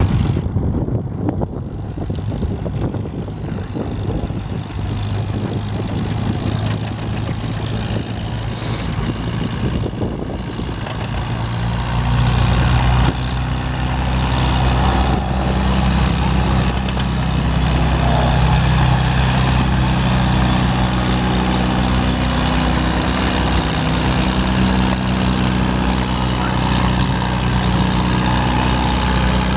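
Antique farm tractor engine running, turning into a louder, steady deep drone about twelve seconds in.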